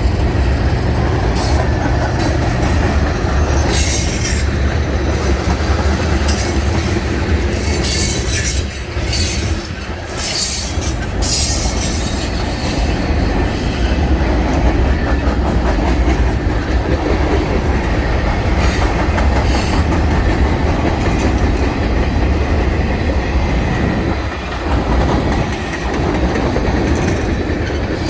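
A train rolling past on the rails: a steady low rumble, with short spells of high-pitched wheel squeal several times.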